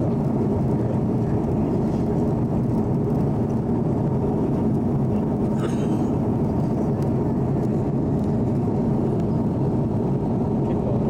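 Airliner cabin in flight: a steady low rush of engine and airflow noise.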